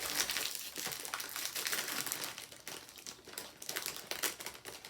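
Plastic snack packet crinkling and rustling as it is handled, in irregular crackly bursts.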